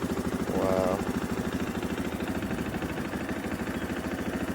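2021 KTM 500 EXC's single-cylinder four-stroke engine idling steadily with an even, regular pulse.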